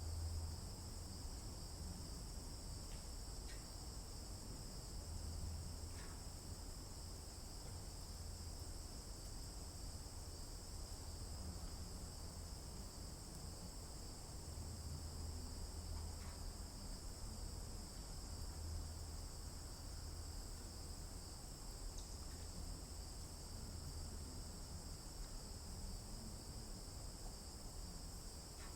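A steady, unbroken chorus of insects such as crickets trilling high-pitched, with a low rumble underneath that swells and fades, and a few faint short bird chirps.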